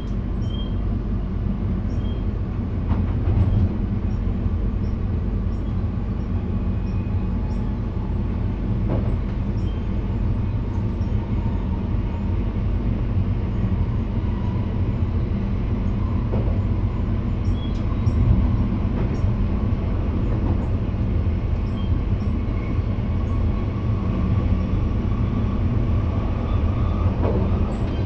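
Steady low rumble of an NS VIRM double-deck electric train running, heard inside the driver's cab, with scattered light knocks and a faint whine that rises slowly in the second half.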